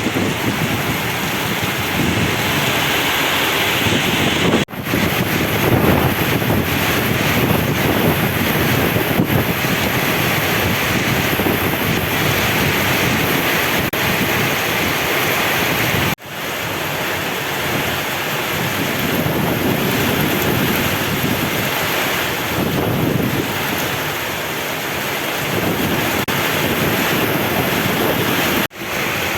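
Heavy rain pouring down with strong wind gusting over the microphone, a dense steady roar that breaks off for an instant three times.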